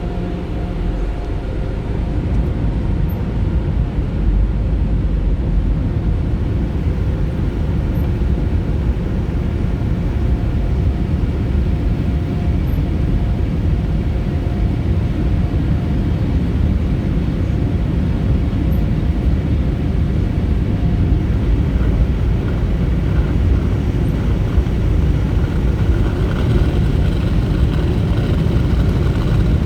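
Car wash machinery running with a steady, loud rumbling rush, growing a little brighter near the end.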